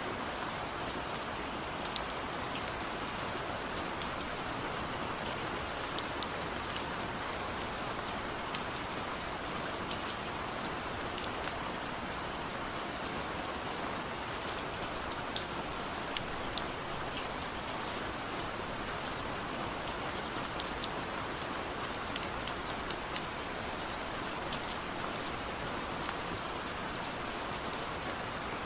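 Steady rain falling: an even hiss with sharp drop ticks scattered all through it.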